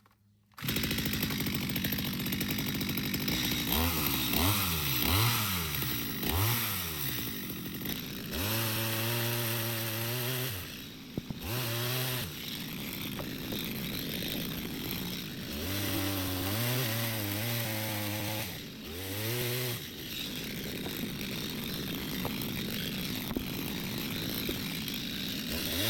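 Power saw running and cutting wood, starting abruptly just after the start, its pitch repeatedly dropping and rising and at times holding steady for a couple of seconds.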